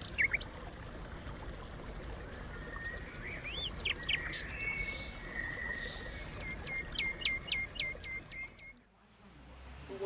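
Small birds chirping outdoors, scattered calls and then a quick series of about seven sharp falling notes in a row shortly before the end.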